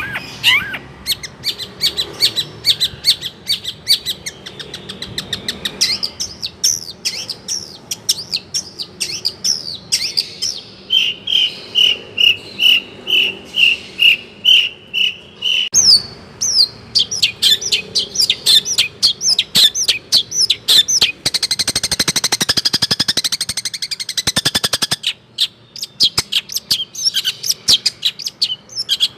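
Long-tailed shrike (cendet) singing a fast, varied song of calls mimicked from other birds. Near the middle comes a run of evenly spaced, repeated high notes, and a little later a rapid buzzy chatter.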